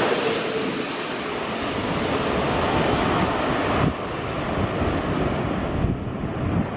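Jet airliner on final approach, just past low overhead: its engine roar fades and dulls, the high hiss dropping away about four seconds in, leaving a low rumbling wash with a few thumps of wind on the microphone.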